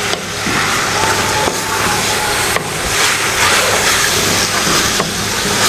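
Beef and bitter gourd sizzling as they are stir-fried on a high flame, with a wooden spatula scraping through the mixture and knocking against the pot a few times.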